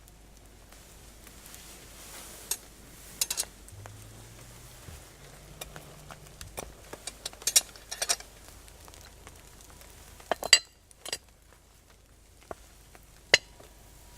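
Metal utensils clinking and scraping against cookware in irregular, scattered knocks, a few of them ringing briefly; the loudest come a little past halfway and near the end.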